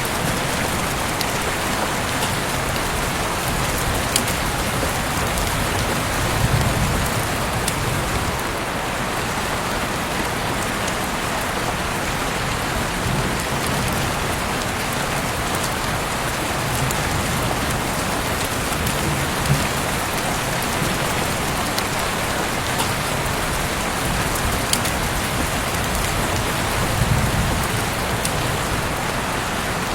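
Heavy rain pouring steadily, with scattered sharp drop taps close by. A brief low swell rises out of it about six seconds in and again near the end.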